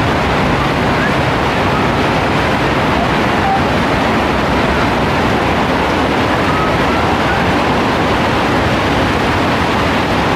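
Heavy rain pouring down steadily in a dense, even rush.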